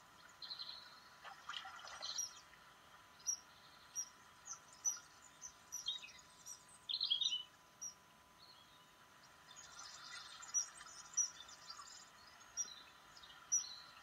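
Birds chirping: scattered short, high-pitched notes at irregular intervals, with a quick run of notes about seven seconds in and another busy stretch toward the end.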